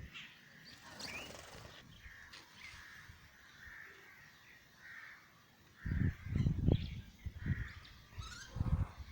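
Morning birdsong: small birds chirping and calling, with a crow cawing. Loud bursts of low rumble come about six seconds in and again near the end.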